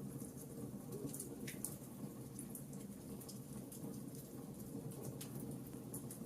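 Wood fire crackling: scattered small pops and snaps over a low, steady rumble of the flames.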